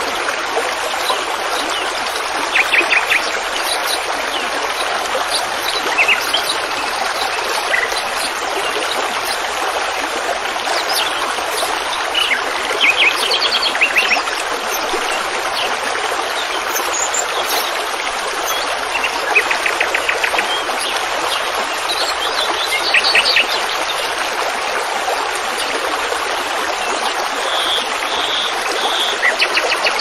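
Small songbirds chirping in short rapid trills that come every few seconds, over a steady rushing hiss.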